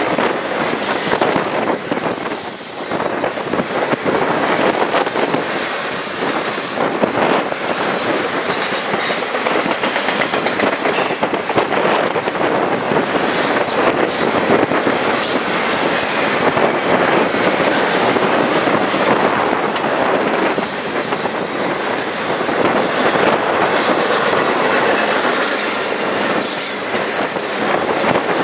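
Double-stack intermodal container well cars rolling past at track speed: a steady loud rush and clatter of steel wheels on the rails, with faint high wheel squeal now and then as the cars take the curve.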